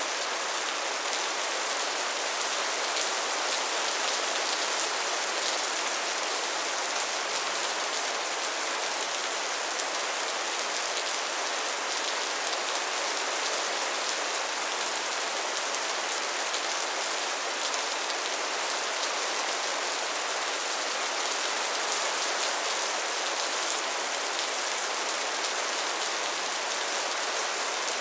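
Steady, soft rain falling, an even hiss of many drops with no breaks or thunder.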